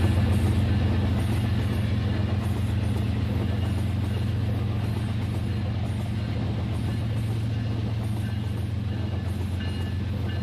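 RailKing toy train running on its track: a steady motor hum and wheel rumble, slowly getting quieter.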